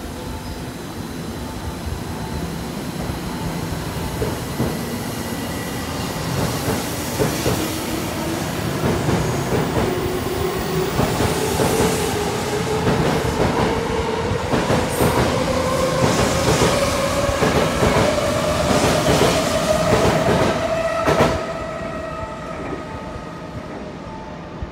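Tokyo Metro 05 series electric train pulling away and accelerating. A whine from its drive rises steadily in pitch, and wheel clacks come closer together as it speeds up. The sound drops off sharply about 21 seconds in as the last car passes.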